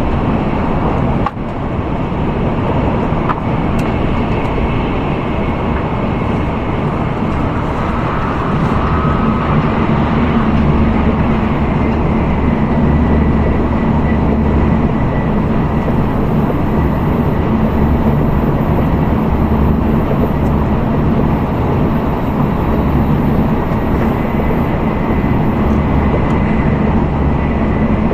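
Running noise of an N700A Tokaido Shinkansen at speed, heard inside the passenger cabin: a steady rumble and rush with a low hum underneath, growing a little louder about nine seconds in.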